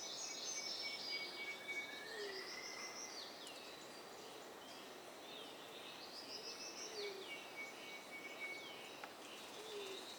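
Mixed chorus of rainforest birds calling at once, faint: long whistled upward glides, short downslurred chirps, a steady high whistled note, and a few low hooting notes.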